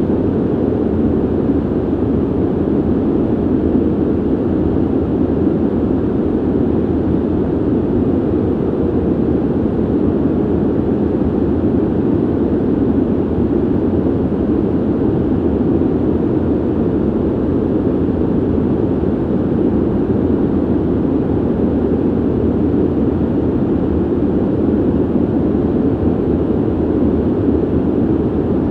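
Steady ventilation noise, an even deep rushing of air with most of its weight low and little hiss above. It holds constant throughout, without change or pulse.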